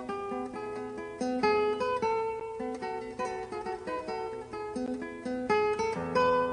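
Background music played on acoustic guitar, plucked notes in a gentle melody.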